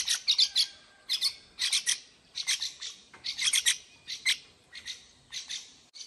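Fledgling bulbuls begging for food: clusters of rapid, high-pitched chirps repeat about once or twice a second, with short pauses between.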